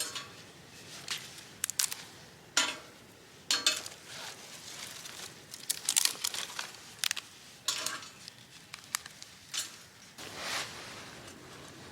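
Camp gear being handled: scattered light clinks of metal cookware or utensils mixed with crinkling rustles, at irregular intervals.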